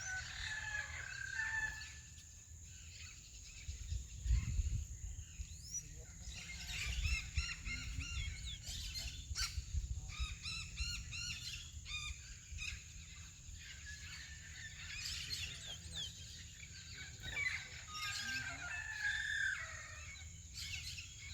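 Chestnut-bellied seed finch (curió) singing in phrases of short, quickly repeated whistled notes and slurs, with pauses between phrases. Low rumbles sound underneath, strongest about four seconds in.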